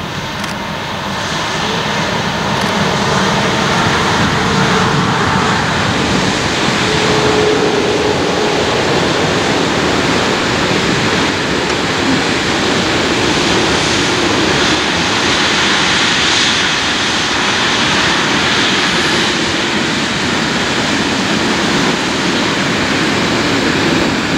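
Long container freight train hauled by an electric locomotive passing close by: a steady rushing rumble of steel wheels on the rails that builds over the first few seconds and then holds.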